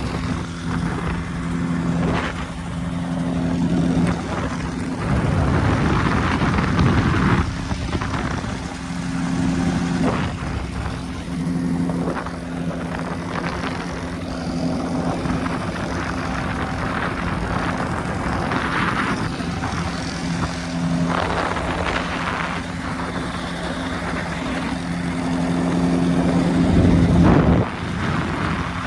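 Quicksilver ultralight's engine and propeller running steadily in flight, just restarted in the air after being shut off, with surges of wind noise over the microphone at times.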